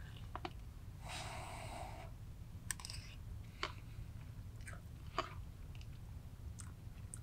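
A person eating: faint chewing with scattered short mouth clicks, and a rustle of a food packet lasting about a second, about a second in.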